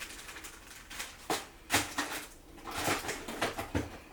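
Several sharp clicks and knocks of small objects being handled, the loudest a little under two seconds in.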